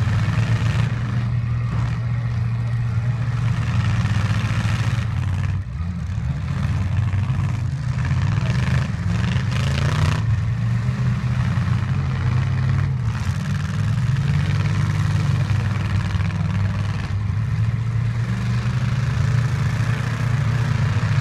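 Demolition derby truck engines running loud and revving, their pitch rising and falling.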